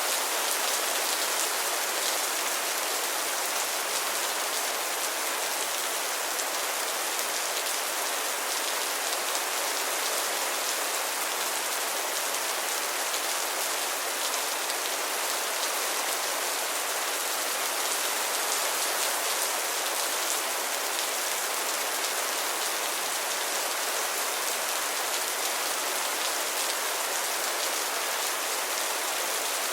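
Heavy rain falling steadily, an even hiss of many drops pattering on a surface.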